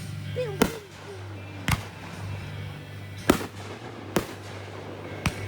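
Fireworks going off: five sharp bangs at irregular intervals, roughly one a second.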